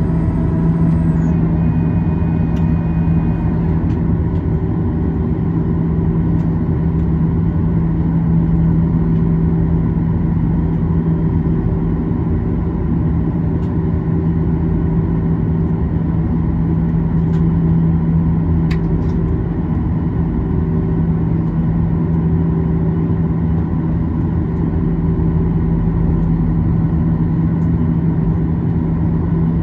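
Steady drone of a Boeing 737-800's CFM56-7B turbofan engines running at idle, heard from inside the passenger cabin, with a strong low hum under an even rushing noise. A faint high whine fades out about a second in.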